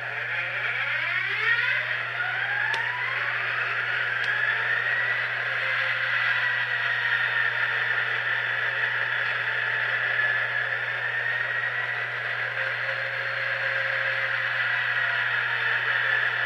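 Tsunami sound decoder in an HO-scale GP15T model playing the start-up of the locomotive's turbocharged EMD 645 diesel prime mover through the model's small speaker. A whine rises over the first few seconds as the engine fires up, then settles into a steady idle with a high turbo whine.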